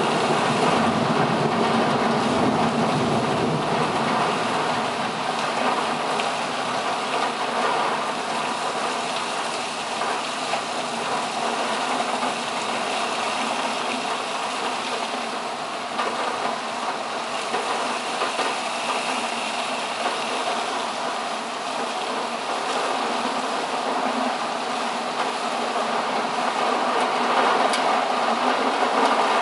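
Heavy thunderstorm rain pouring steadily, with a low thunder rumble dying away in the first couple of seconds.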